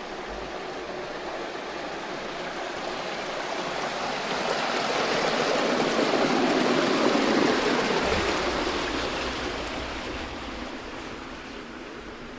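Rushing stream water, a steady hiss that grows louder to a peak a little past the middle and then fades again.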